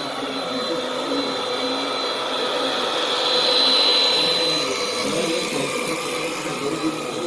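Electric drive motor and gearbox of a radio-controlled scale truck whining steadily, growing louder a little past the middle and then easing off.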